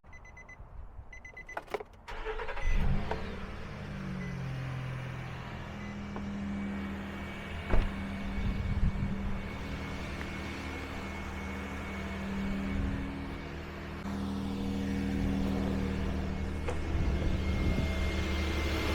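A few faint electronic chime beeps, then about two seconds in a car engine cranks and starts from cold and settles into a steady idle.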